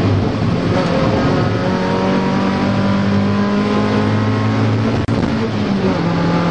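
Mazda Miata rally car's engine running hard under load, heard from inside the cabin over steady road and tyre noise, its note climbing slowly. About five seconds in the sound cuts out for an instant, and the engine note comes back slightly lower.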